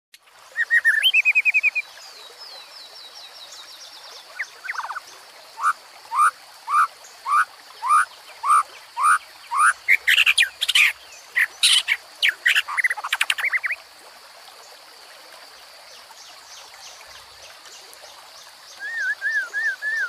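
Songbirds singing: a run of evenly spaced rising whistled notes, then a burst of quick, varied song, and a short warbling phrase near the end. Behind them run a steady high-pitched drone and the faint babble of a shallow stream.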